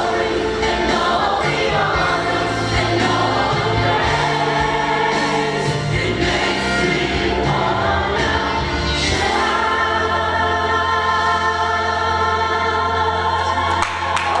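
Choir singing a gospel worship song with instrumental accompaniment, settling about two-thirds in onto a long held final chord.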